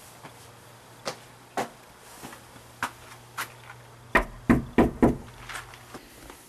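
Knocking on a door: a few scattered light knocks, then four loud knocks in quick succession about four seconds in, over a faint steady hum.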